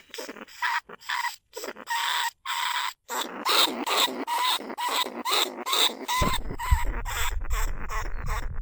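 Small bandicoot rats squeaking and chattering in quick, irregular bursts of short calls: a rat-calling sound used as a decoy to lure rats out of their burrows. From about six seconds in, a low rumble runs under the calls.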